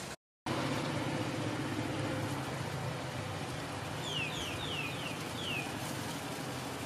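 Steady low outdoor noise, with a bird giving a quick run of four or five short downslurred whistles about four seconds in. The sound cuts out briefly at the very start.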